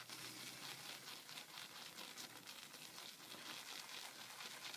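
Damp high mountain white badger shaving brush swirling lightly over a puck of Martin de Candre Fougère shave soap, a faint, steady bristly crackle as the brush loads soap before lathering.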